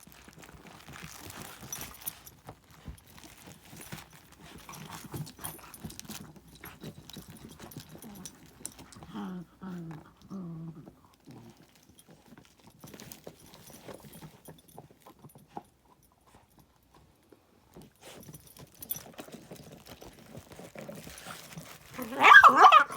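Beagle puppy rustling and knocking about quietly among toys, with a few short low vocal sounds around nine to eleven seconds in; about a second before the end it breaks into loud, high-pitched barking yelps.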